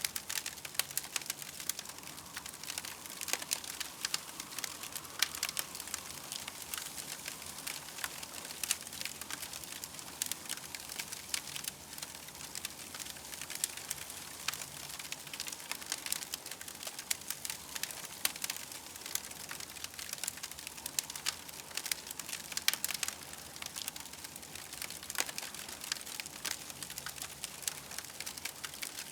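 Campfire crackling, with a dense, irregular run of small pops and snaps over a soft hiss.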